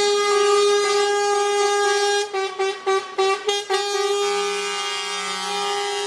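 Lorry air horn held in one long steady blast, broken in the middle into a quick run of about five short toots, then held again. A fainter, lower horn sounds alongside in the second half.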